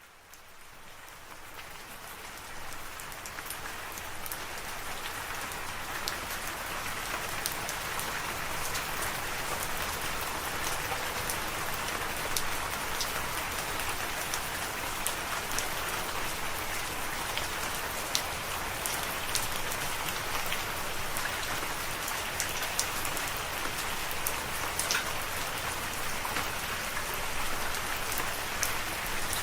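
Steady rain, fading in from silence over the first few seconds, with scattered sharp ticks of single drops striking a surface.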